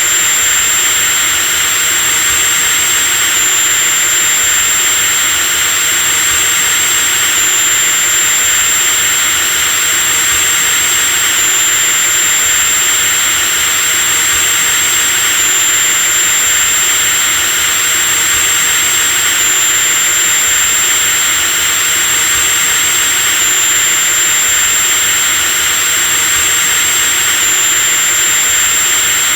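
Electric power drill running continuously at speed: a steady motor whine over a hiss, the high whine stepping slightly in pitch about every four seconds.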